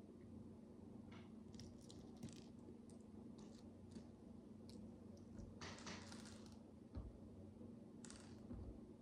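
Faint, scattered clicks of tiny plastic micro bricks being handled and pressed together, with a brief rustle about six seconds in, over a faint steady hum.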